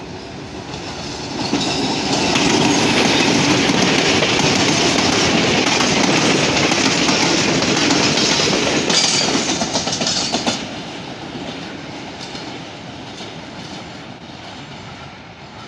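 A short train led by a PHA-20 diesel-electric locomotive, with tank wagons and a brake van, passing close by on the track with its wheels clattering over the rails. The sound builds about two seconds in, stays loud for about eight seconds, then fades as the train moves away.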